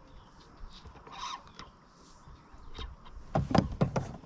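A quick cluster of sharp knocks, about five, near the end, after a few quiet seconds.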